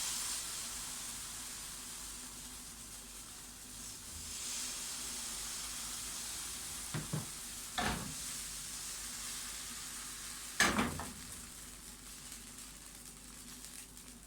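Vegetables sizzling in hot oil in a frying pan, starting abruptly. A few sharp knocks come around the middle, as something strikes the pan.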